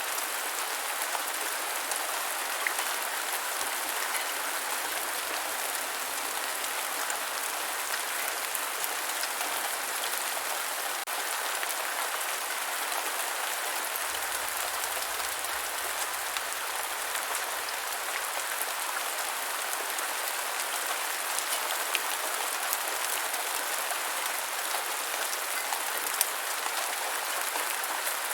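Steady rain falling on the ground: an even hiss with scattered individual drop ticks.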